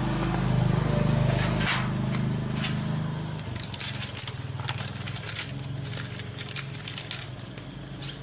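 A motor running steadily, easing off somewhat after about three and a half seconds, with scattered clicks and scrapes over it.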